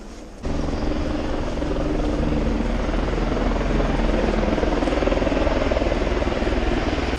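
Helicopter running: steady rotor and engine noise with a low hum, cutting in abruptly about half a second in.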